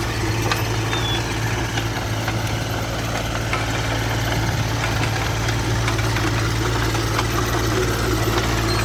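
Engine idling steadily, a low even hum with faint scattered ticks over it.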